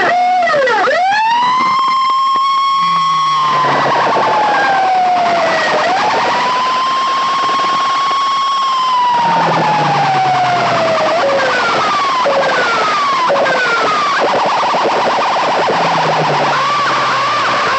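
Siren effect played loud through a DJ sound system: a wailing tone sweeps up, holds high and slides slowly down, three times over. Short falling whoops come in the middle, and a fast warble near the end.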